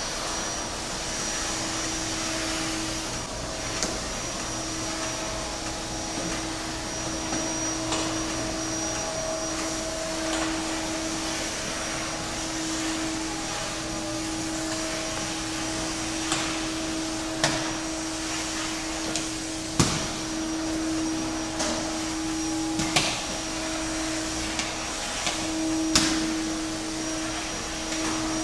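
Go Free cordless vacuum running with a steady motor hum and high whine. Several sharp knocks come in the second half.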